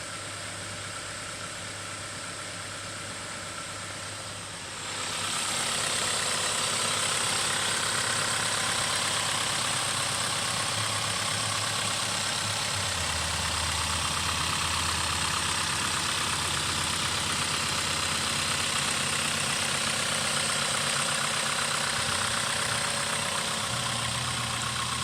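Volkswagen Golf engine running at idle, steady throughout; about five seconds in the sound gets louder and brighter with more hiss, and holds there.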